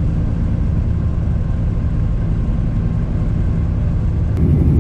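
Semi truck's diesel engine running steadily under way, a constant low drone heard from inside the cab, a little louder after an abrupt change near the end.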